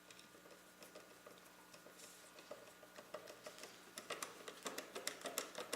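A screwdriver tightening a screw on a PC part, giving a run of faint small ticks that grow louder and more regular, about three a second, from about four seconds in.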